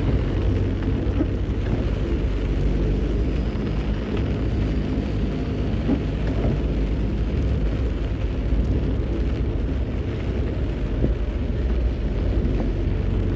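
A vehicle driving on a rain-wet road, its engine and tyres giving a steady low rumble.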